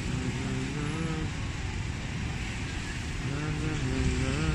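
Steady low rumbling noise, with a person's voice heard twice over it: near the start and again about three seconds in.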